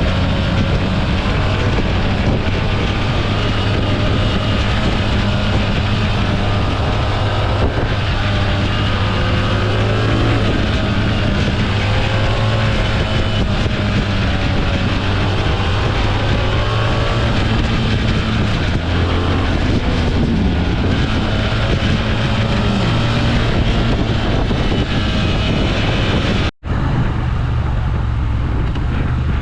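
Motorcycle engine running on the move over a steady rush of road noise, its pitch rising and falling as the throttle changes. The sound cuts out for a moment near the end.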